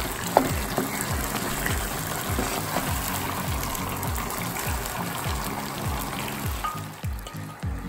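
Chicken pieces and spice masala sizzling and frying in oil in a wok, stirred with a wooden spatula, with a sharp spatula knock about half a second in. Background music with a steady beat plays underneath, and the sizzle dies down near the end.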